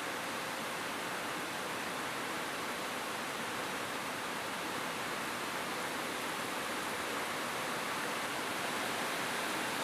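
Rain falling steadily on a roof, a dense, even hiss with no single drops or thunder standing out.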